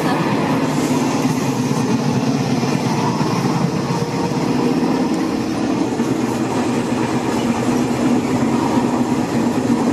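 Steady rumble and rattle of a passenger train heard from inside the carriage, running at an even level throughout.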